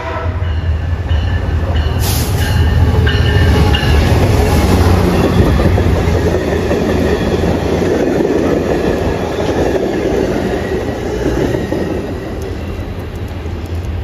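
MARC commuter train passing through the station: the diesel locomotive's engine rumble, then the passenger coaches' wheels clattering on the rails. The sound is loudest a few seconds in and eases off near the end as the train moves away.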